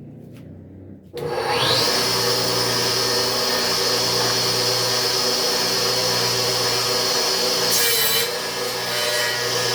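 Electric woodworking power tool switched on about a second in, its motor whine rising quickly to a steady high pitch as it runs on wood, with a brief dip in load near the end.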